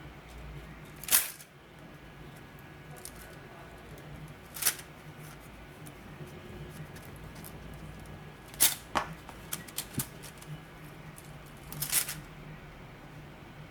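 Sharp plastic clacks at irregular intervals from handling a 3D-printed spring-loaded skull toy, over a steady low hum. The loudest comes about a second in, and a quick cluster follows later on.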